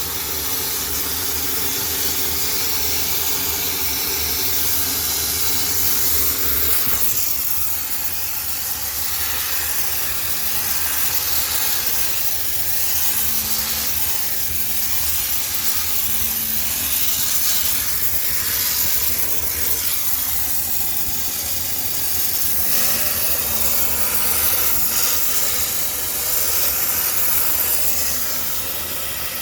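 High-pressure steam sterilizer jetting steam into a laundromat washing machine: a steady, loud hiss, with a low machine hum underneath that fades about seven seconds in.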